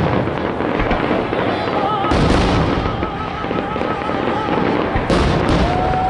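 Fireworks going off in a dense, continuous barrage of booms and crackling, with sharp bangs about two seconds in and again near five seconds.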